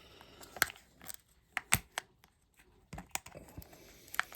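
Scattered sharp clicks and taps of small hard plastic pieces being handled, as a plastic Kinder Joy egg is picked up and worked open.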